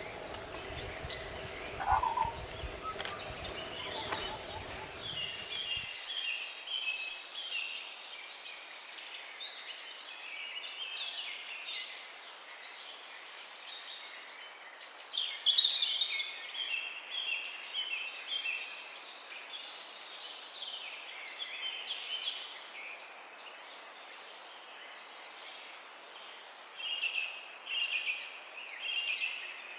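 Several small birds chirping and twittering: a steady scatter of short, high chirps and repeated thin notes, busiest about halfway through. A low background rumble stops abruptly about six seconds in.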